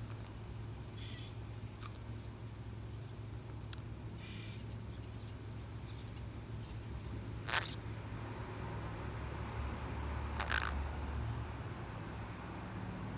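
A pet parrot making a few faint chirps and two short, sharp calls, about halfway and again near three-quarters through, over a low steady hum.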